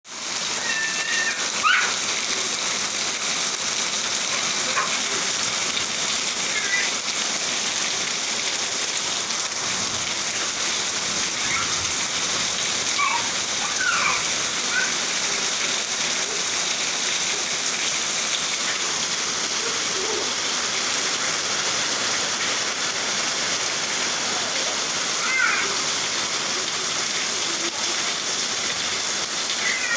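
Heavy rain falling steadily onto wet concrete and puddles, a dense, even hiss.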